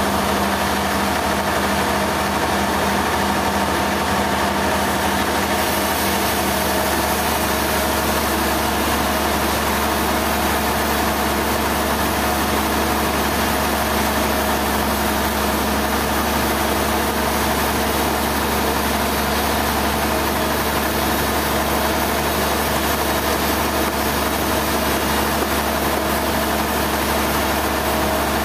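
Heavy engine-driven machinery running steadily at constant speed: a loud, unchanging hum with a wash of noise over it.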